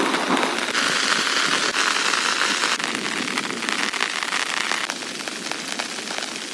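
Heavy rain: a dense steady hiss with many sharp individual drop hits. It eases a little about five seconds in.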